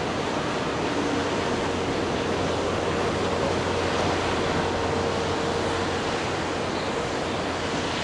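Jet aircraft engine noise at an airport: a steady, even rushing sound with a faint held tone and a low hum under it.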